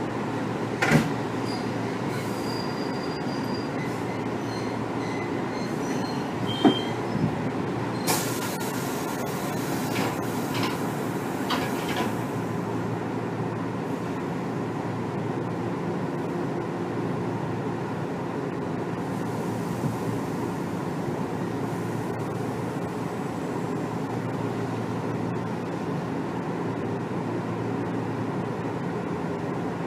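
Inside a Kotoden 1300-series electric train car (ex-Keikyu 1000 series): a steady hum with two sharp knocks, about one and about seven seconds in. A burst of hissing with several clicks follows from about eight to twelve seconds in.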